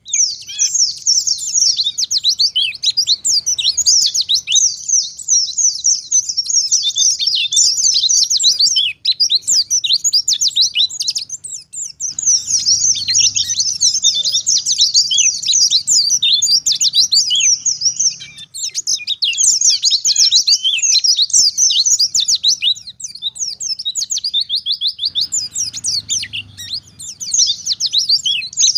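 White-eye (pleci) singing continuously: long runs of fast, high-pitched twittering chirps, broken by a few short pauses.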